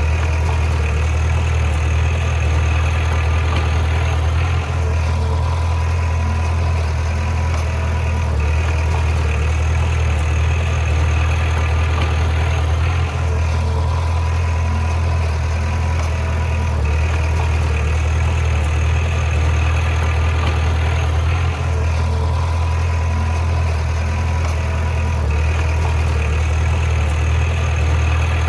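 Heavy diesel engine of a bulldozer running steadily with a deep low rumble, its higher sounds briefly dropping away about every four to five seconds.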